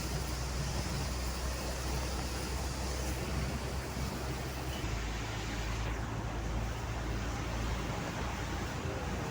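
A vehicle driving on a wet highway in heavy rain: a steady low engine drone under a hiss of rain and wet tyre noise. The drone shifts in pitch about halfway through.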